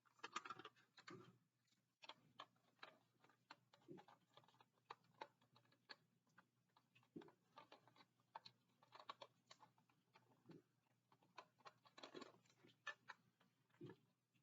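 Faint, irregular small clicks and taps with a few soft thumps: hands working a diecast model car free of its plastic packaging.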